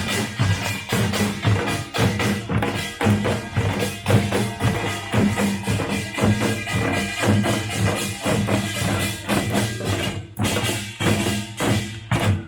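Live Korean pungmul folk percussion band playing: drums struck in a fast, dense, steady rhythm with the clanging of small metal gongs over them, briefly thinning out about ten seconds in.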